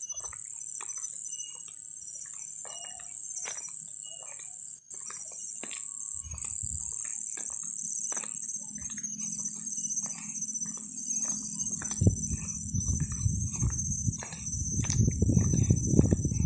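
Insects singing in a steady, high-pitched drone, with scattered short bird chirps. A low rumble builds in the second half.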